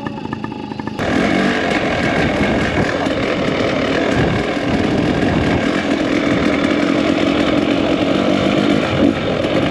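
Two-stroke dirt bike engine running under way while riding, with wind rushing over the microphone; the sound jumps louder about a second in.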